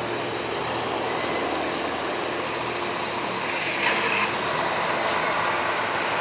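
Steady vehicle engine and traffic noise, with a brief louder hiss about four seconds in.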